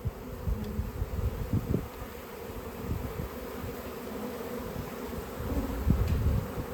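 A honey bee swarm buzzing steadily as the bees settle into a collection box, with irregular low rumbles and thuds underneath.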